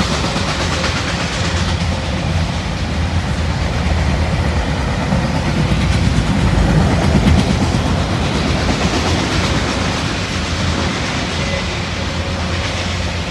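Fast freight train of autorack cars passing close by: a steady, loud rumble and clatter of steel wheels on the rails, swelling slightly in the middle.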